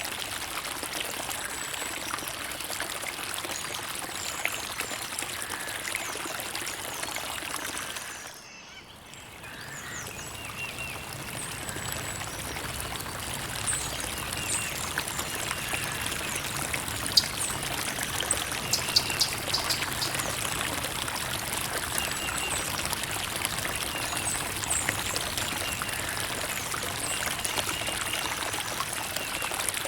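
Creek water trickling and pouring steadily. About eight seconds in it dips quieter for a second, then builds back up.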